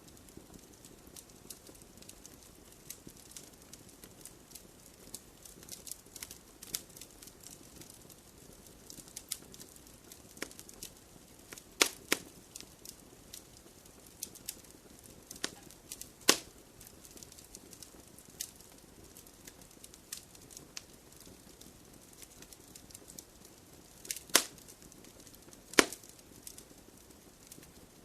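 Wood fire crackling in a fireplace: a steady scatter of small irregular snaps over a faint hiss, with a few louder pops, four of them standing out.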